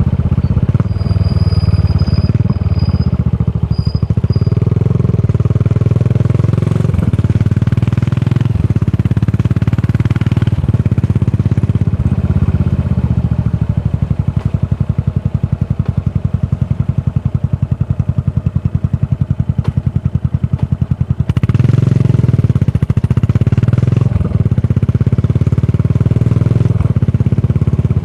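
Yamaha SR400's air-cooled single-cylinder engine running through a Goods tapered cone slip-on muffler, a steady low pulsing exhaust beat. The beat eases off to a quieter stretch past the middle, then picks up louder again about three quarters of the way through.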